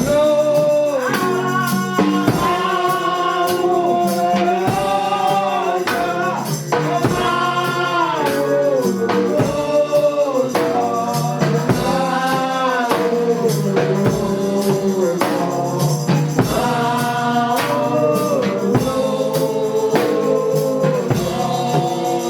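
Gospel worship song: a group of voices singing a melody together over percussion keeping a steady beat.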